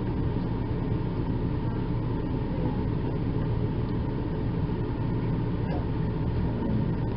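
A steady low hum of running machinery, unbroken and even in level.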